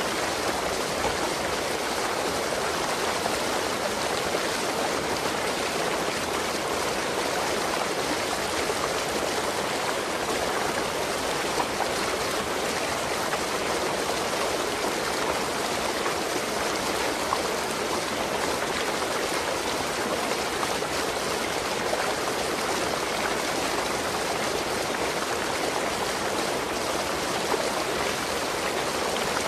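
Waterfall, water rushing steadily in an even, unbroken noise.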